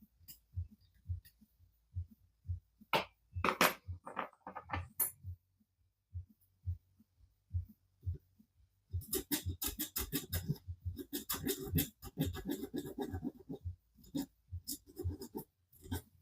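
A metal hand file rasping on a die-cast model car body, in bursts of quick back-and-forth strokes. A soft low thump repeats about twice a second underneath.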